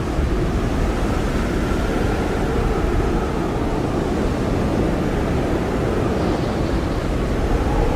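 Strong blizzard wind blowing steadily, with a faint whistle that wavers in pitch.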